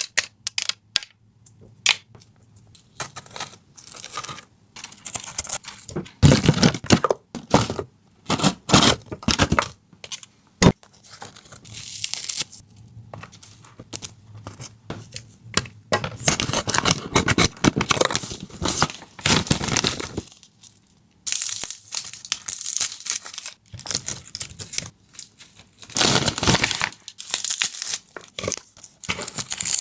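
Irregular tearing and crinkling noises in short, uneven bursts, with a few brief pauses and one sharp click about ten seconds in.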